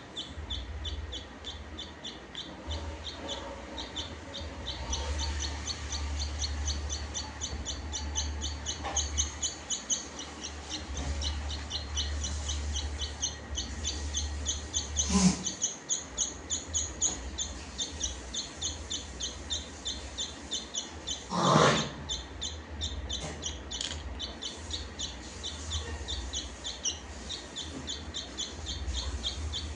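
Small birds chirping rapidly and without pause, short high-pitched chirps several a second. Two brief louder noises break in, about halfway through and again about two-thirds through, over a low rumble.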